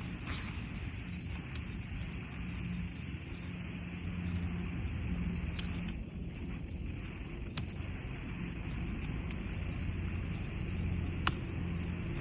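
Steady high-pitched chorus of crickets, with two sharp clicks, one past the middle and a louder one near the end.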